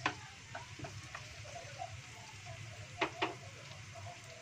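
Sliced shallots, garlic and green chilies frying in oil in a wok, a steady low sizzle with a few sharp clicks, two of them close together about three seconds in.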